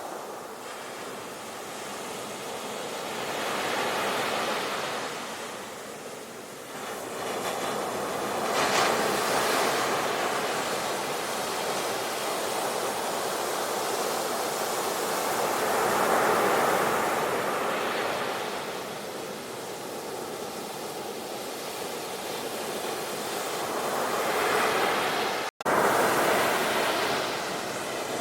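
Sea waves washing ashore in slow swells, the surf rising and falling in surges every several seconds. A split-second dropout near the end.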